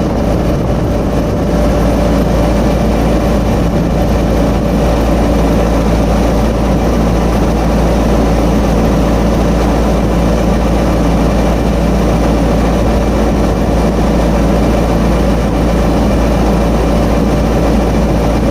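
Diesel engine running steadily at a constant speed, a loud, even drone with a low hum and steady tones that do not change.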